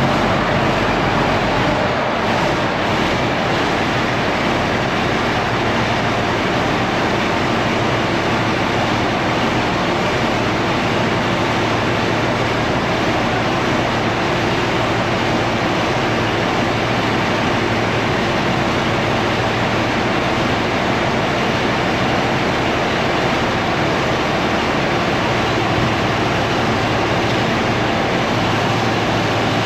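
IH Dresser TD25G crawler bulldozer's diesel engine running steadily and loud as the machine drives on its freshly repaired steel tracks.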